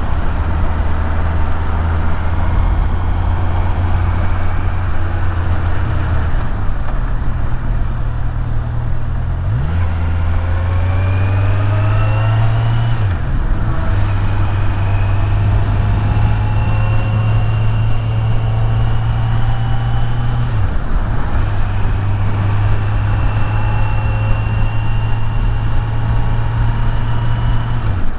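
Kawasaki Z900's inline-four engine under way, with wind rush. The engine note holds steady, then climbs as the bike accelerates, dipping briefly at gear changes a little before halfway and about three-quarters of the way through before settling to cruise again.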